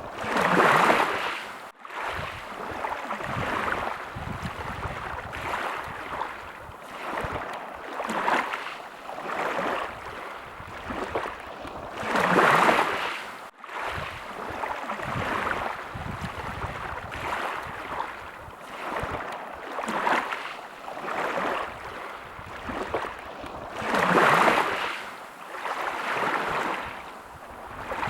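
Small waves washing in and lapping at the water's edge: a bigger wash about every twelve seconds, with smaller laps every couple of seconds between. The sound cuts out for an instant twice.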